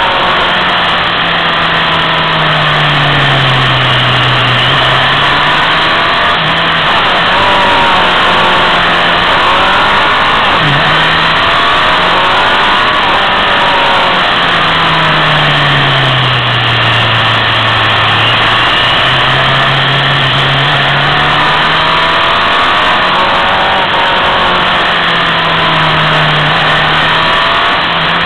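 Motorcycle engine heard from on board, its note sinking as it slows into bends and climbing again as it pulls out, twice over, under a constant rush of wind and road noise.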